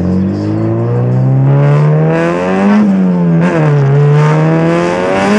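Turbocharged Honda B18C 1.8-litre four-cylinder in a Civic hatch, with a straight-through exhaust and no muffler, accelerating. The engine note rises, drops sharply at a gear change about three and a half seconds in, then climbs again.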